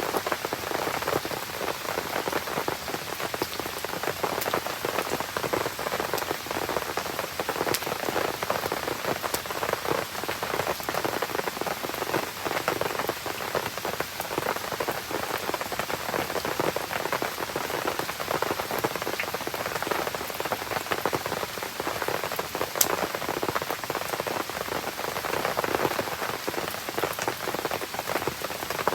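Steady rain falling and pattering, with occasional sharp crackles from a campfire burning in it, one louder pop near the end.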